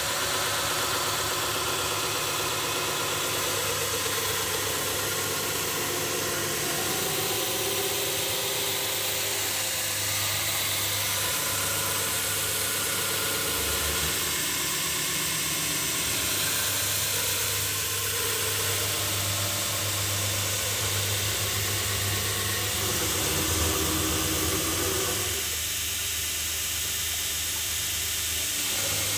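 2x48 belt grinder running while the bevels of a leaf-spring steel blade are ground on the belt: a steady grinding noise over the hum of the motor.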